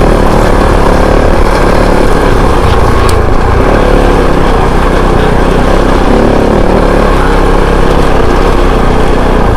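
Kove 450 Rally's single-cylinder engine running as the dirt bike is ridden, its pitch shifting a little, over a steady rush of noise.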